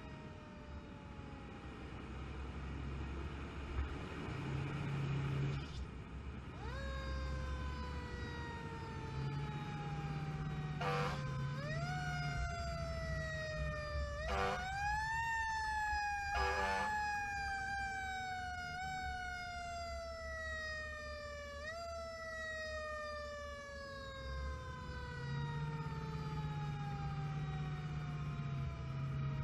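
Emergency-vehicle mechanical siren, spun up again and again and left to coast down slowly in pitch between each rise, with three short wavering siren blasts around the middle. The vehicle's engine runs low underneath.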